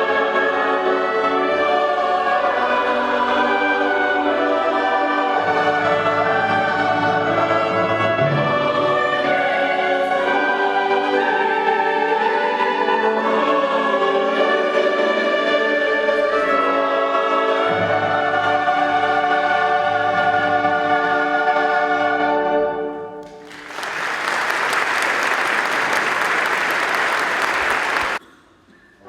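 A choir singing with orchestral accompaniment; the piece ends a little past three-quarters of the way through, and the audience applauds for about five seconds before it stops suddenly.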